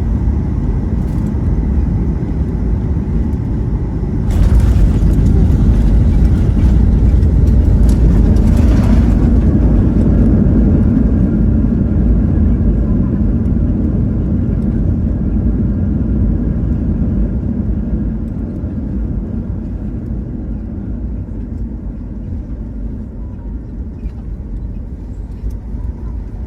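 Jet airliner heard from the cabin on the landing rollout: a steady low rumble of wheels on the runway. About four seconds in a loud jet-engine roar rises suddenly and holds for about five seconds, typical of reverse thrust slowing the plane. The rumble then slowly fades as the aircraft slows down.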